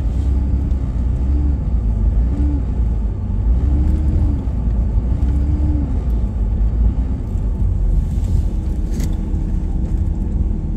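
Vehicle driving, heard from inside the cab: a steady low engine and road rumble. Over it, a faint tone swells and fades about once a second, then holds steady near the end.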